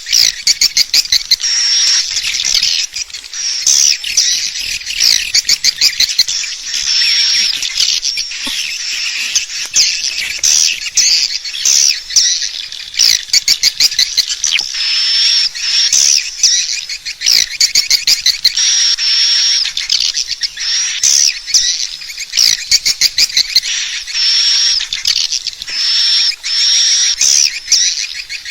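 Edible-nest swiftlets calling: dense high twittering chirps mixed with fast rattling runs of clicks, repeating without a break. It is a swiftlet-house lure call recording, played to draw the birds in to roost and nest.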